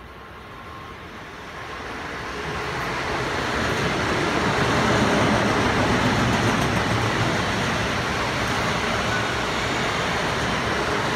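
Passenger train approaching and passing: a broad rushing rumble that builds over about five seconds and then holds steady.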